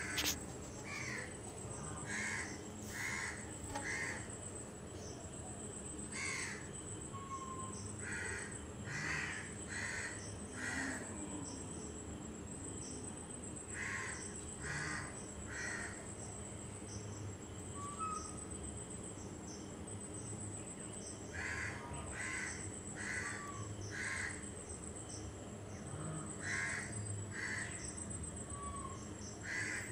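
Birds calling in the background: short calls in runs of three or four, repeating every few seconds, over a faint steady high-pitched tone.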